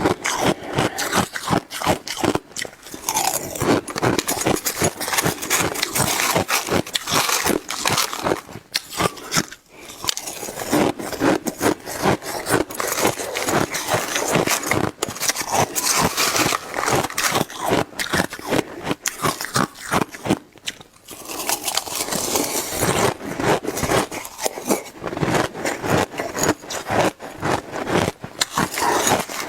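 Close-miked crunching and chewing of mouthfuls of shaved ice: a dense, rapid crackle of ice grains breaking between the teeth, pausing briefly twice.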